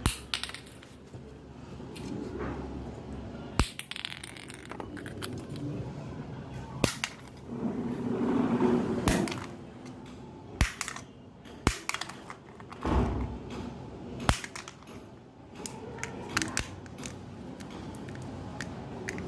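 Sharp clicks and cracks at irregular intervals, a dozen or so over the stretch, over a low background murmur.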